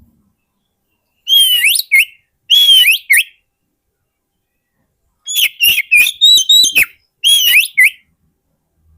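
Oriental magpie-robin singing: four loud phrases of clear, sliding whistled notes with short silences between them, the third a quick run of several notes.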